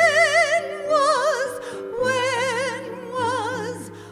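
A woman singing a slow ballad phrase, holding the word "When" and the notes that follow with a wide, even vibrato over sustained accompaniment chords.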